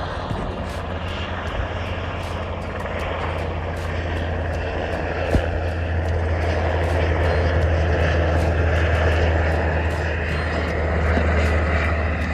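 Military helicopters flying close: a steady low engine drone with a regular beating on top, growing louder over the first half and then holding.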